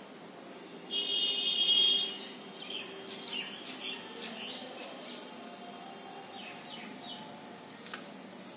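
Birds chirping. The loudest is a high, buzzy note held for about a second, starting about a second in, followed by quick short chirps and a few sliding calls.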